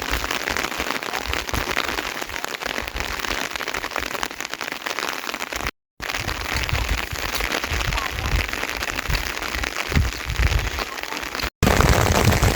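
Rain falling, a dense patter of many drops. The sound drops out twice, briefly, about six seconds in and near the end.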